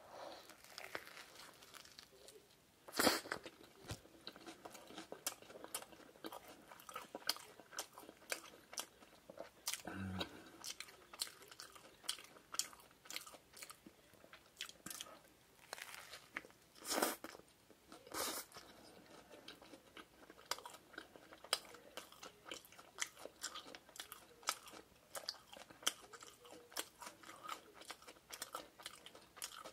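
Close-miked biting and chewing of a Lotteria shrimp burger, with wet chewing clicks throughout and crunchy bites into it about three seconds in and twice more past the middle.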